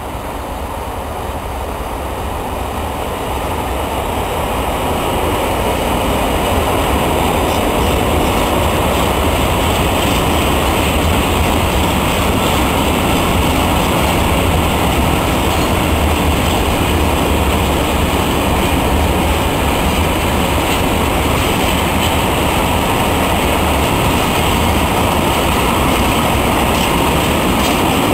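Two freight trains passing at once: the steady rolling rumble of empty container flat wagons on the near track, joined by a train of open goods wagons on a farther track. The noise grows louder over the first several seconds, then holds steady.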